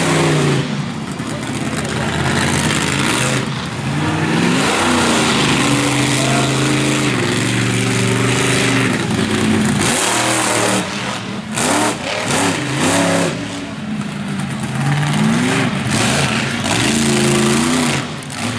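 Monster truck engine revving hard again and again, its pitch climbing and falling with each throttle stab, over a dense, loud wash of noise.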